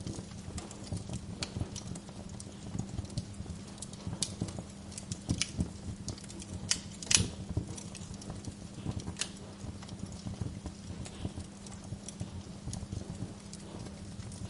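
Wood fire in a fireplace crackling, with irregular sharp pops and snaps and one louder pop about seven seconds in, over a steady low hum.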